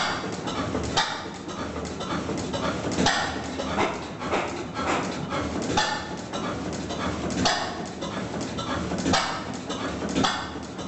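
Vintage single-cylinder stationary engine running slowly over a steady low rumble, with a sharp exhaust bang every second or two at uneven spacing.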